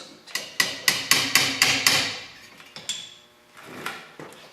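Hammer striking thin truck-bed sheet metal: a quick run of about eight ringing blows, then two single strikes.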